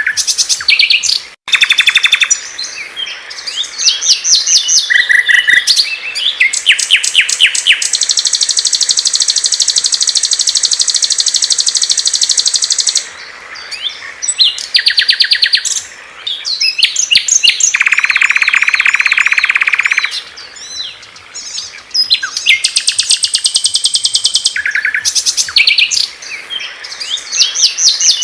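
Small songbirds singing loud, clear songs of rapid chirps and trills, one song cut straight after another, with a long, even trill held for several seconds in the middle.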